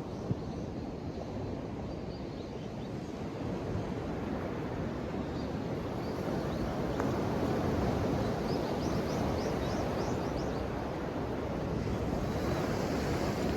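Ocean waves washing onto the shore in a continuous low rush, swelling a little louder around the middle.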